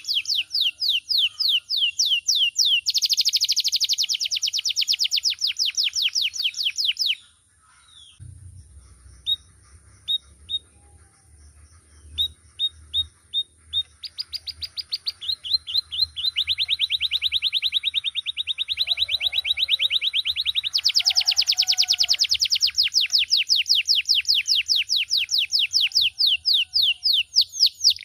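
Male domestic canary singing long, fast trills of rapidly repeated high notes. The trill breaks off about a quarter of the way in, a few separate chirps follow, then the rapid trills start again and carry on.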